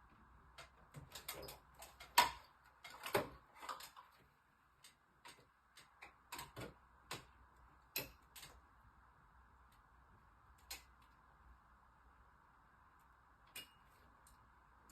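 Irregular sharp clicks and light knocks of hands working with tools and small parts, a dense cluster in the first four seconds, then scattered single clicks, over a faint steady hiss.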